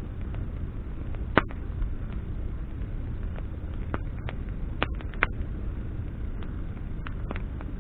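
Wood campfire burning, with a steady low rush of flame and sharp crackles and pops from the burning branches every second or so. The loudest pop comes about a second and a half in.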